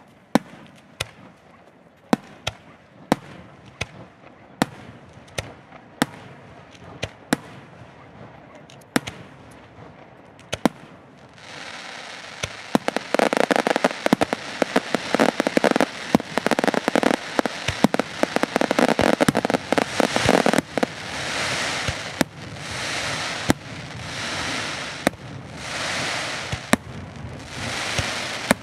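Aerial firework shells bursting: sharp separate bangs, about one or two a second, for the first ten seconds or so. Then a dense, continuous crackle of rapid pops with bangs among them. In the last third it turns into crackling swells that rise and fade every couple of seconds.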